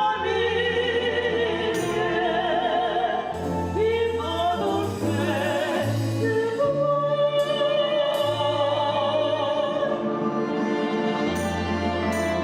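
A song: a singer holding notes with a wide vibrato over instrumental accompaniment, with bass notes that change every second or two.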